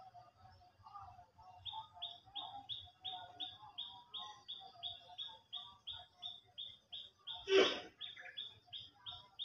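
Birds calling: one repeats a short, high, falling chirp about three times a second, over scattered lower chirps. Near the end a brief louder knock stands out.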